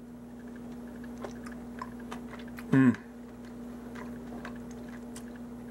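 A person chewing a mouthful of beef stew with carrot, beef and potato, faint soft mouth clicks, with a brief falling vocal sound about three seconds in. A steady low hum runs underneath.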